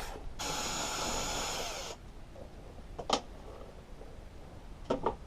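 Electric screwdriver running in one burst of about a second and a half, undoing a screw on a lawnmower's rear axle. This is followed by a single sharp click and a couple of lighter knocks near the end.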